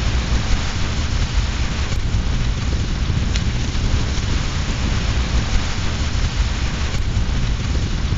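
Steady rain with a deep low rumble underneath, mixed with a fireplace fire; a faint crackle or pop now and then near the start and end.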